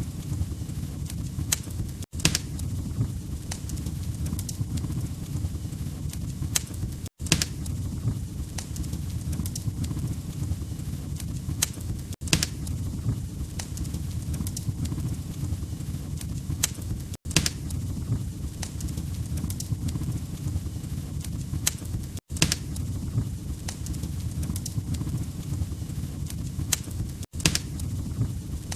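Fireplace wood fire crackling: a steady low rumble of flames with scattered sharp pops and snaps. The sound cuts out for a split second about every five seconds, as a short looped clip restarts.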